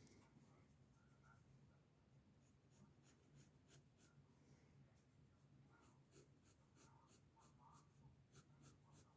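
Faint pencil strokes scratching on paper during sketching, coming in quick runs of about three strokes a second. A faint low hum runs underneath.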